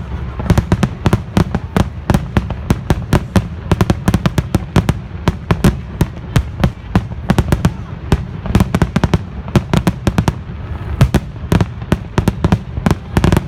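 Fireworks going off in a rapid, irregular string of sharp cracks and pops, several a second, over a steady low rumble.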